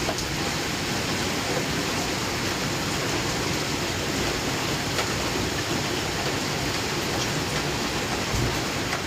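Steady rain falling during a thunderstorm, an even hiss with no thunder.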